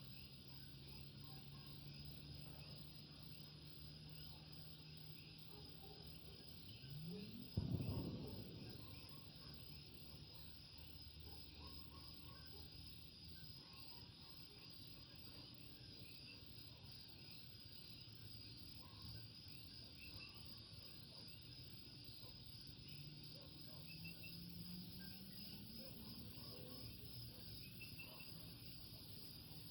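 Faint night chorus of Puerto Rican coquí frogs, many calling at once over a steady high trilling. About seven and a half seconds in, a brief louder rising sound ends in a thump.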